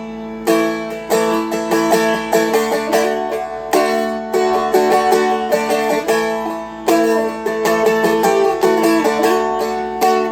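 Seagull Merlin M4 (a four-string dulcimer-style instrument) strummed with a pick, alternating between A and D chords over a steady ringing drone note.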